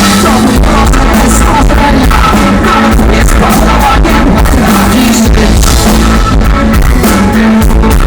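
Live rock band playing loud, with drums keeping a steady beat and a singer's voice, recorded so close to full volume that the sound is crushed and distorted.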